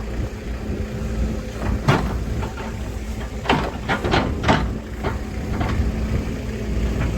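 A Kobelco SK200-10 excavator's diesel engine runs steadily under a series of sharp knocks and clanks, the loudest about 2 s in and a cluster around 3.5 to 4.5 s.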